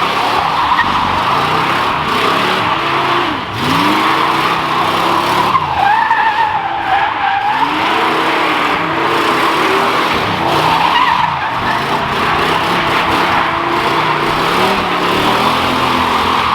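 A car doing a burnout: its tires spin and screech steadily while the engine revs up and falls back over and over.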